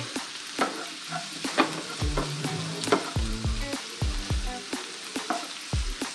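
Chopped onions with curry leaves and green chillies sizzling in hot oil while being stir-fried in a pan, with a steady hiss and frequent irregular crackling pops.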